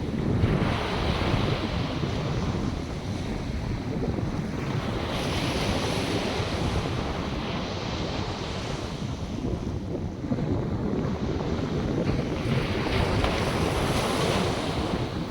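North Sea surf: waves breaking and washing in, three times, each rising and falling away over a few seconds, with wind rumbling on the microphone throughout.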